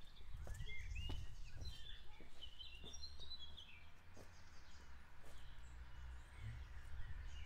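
A small songbird singing a quick twittering phrase of rising and falling notes over the first three and a half seconds or so, over a steady low outdoor rumble.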